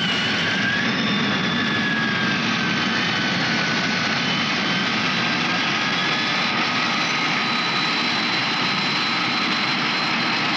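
Jet engine running steadily: an even rushing noise with high whining tones that drift slightly in pitch.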